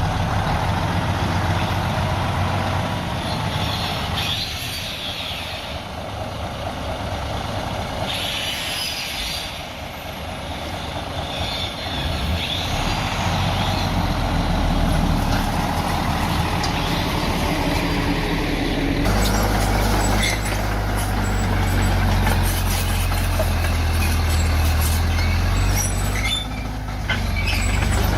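Diesel engines of a bulldozer and a dump truck working, running steadily, with a few short hissing bursts in the first ten seconds. About two-thirds of the way through the engine sound gets louder and deeper, as a machine works under load.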